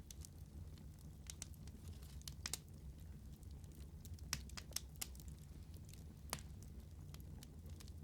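Wood fire burning in a fireplace: a steady low rumble of the flames with frequent sharp crackles and pops, several of them louder than the rest.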